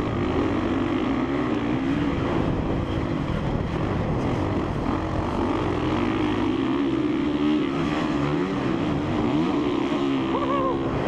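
2017 Honda CRF450R's single-cylinder four-stroke engine under ride, its pitch rising and falling again and again with throttle and gear changes.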